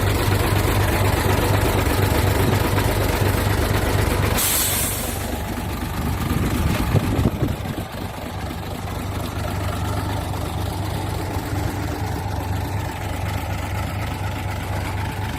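Mitsubishi Fuso Fighter truck's diesel engine running steadily, with a short burst of hissing air about four and a half seconds in, after which the engine is a little quieter.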